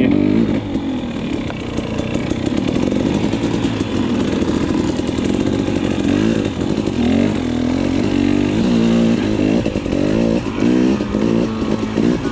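Dirt bike engine running under load as it is ridden, the throttle blipped so the revs rise and fall, with a run of quick revs in the second half.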